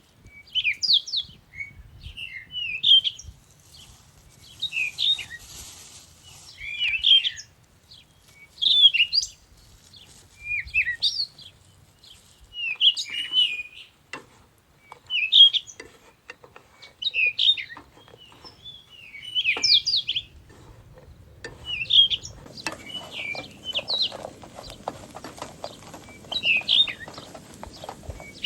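A songbird singing short chirping phrases, one about every two seconds. About three-quarters of the way in, a steady crackling patter starts up beneath it.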